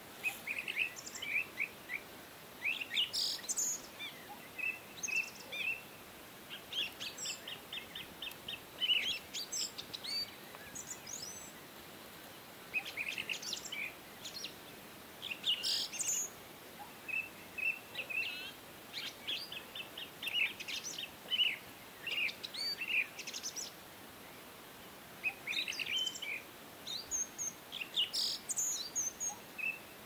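Birds chirping and calling in bursts: short high chirps and quick trills, with a few pauses, over a faint steady hiss.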